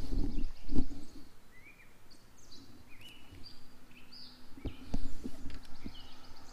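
A small bird chirping a series of short, quick notes that slide up and down in pitch. Dull knocks of a rod and gear being handled on the boat deck come at the start and again near the end, and these are the loudest sounds.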